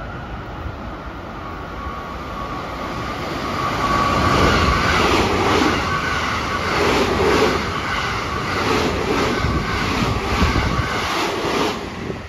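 JR West 223-series electric train passing at speed on the Special Rapid service. A thin steady whine comes first as it approaches, then it grows louder about four seconds in, with an even, rhythmic clatter of wheels over the rail joints as the cars go by. The clatter dies away near the end.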